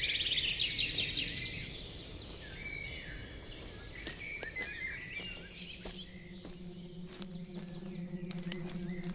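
Woodland birdsong, several birds chirping over a steady low background hiss. About five seconds in, a low sustained musical drone comes in, with a few sharp clicks near the end.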